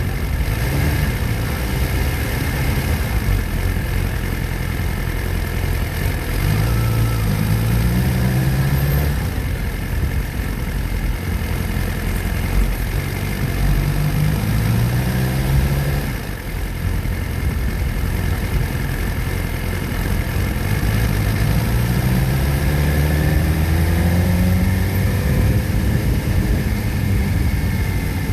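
Motorcycle engine running under way, its pitch rising several times as it accelerates through the gears, over a steady rush of wind noise.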